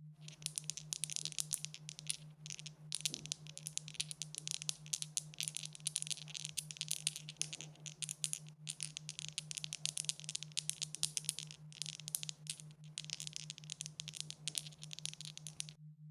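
Dice rattling: a dense, continuous run of small clicks lasting about fifteen seconds, broken by a few brief pauses, over a steady low hum.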